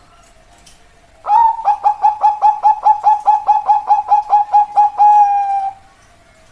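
A zebra dove (perkutut) singing its cooing song. About a second in it gives one longer coo, then a fast string of short coos at about five a second, and ends on a long drawn-out coo.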